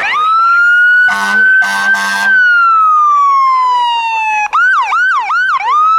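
Emergency vehicle's electronic siren winding up into a wail, with two horn blasts over it about a second in. The wail then falls slowly and switches abruptly to a fast yelp about four and a half seconds in, rising again near the end.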